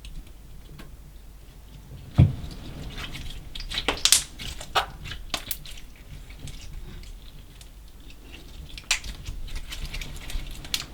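Slime mixed with small colored particles being squished and kneaded by hand, giving sticky pops and clicks. There is a dull thump about two seconds in, and bunches of clicks around four to five seconds in and again near nine.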